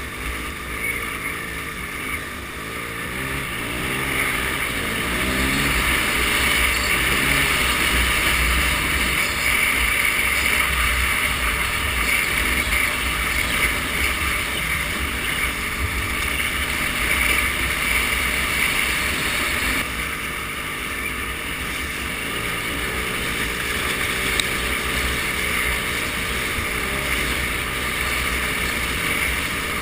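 An engine running under way, its pitch wavering up and down, over a steady rushing noise of wind or water.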